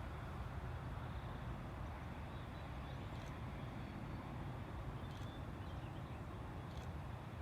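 Steady low rumble of distant jet aircraft engines with some wind hiss, and a few faint bird chirps scattered through.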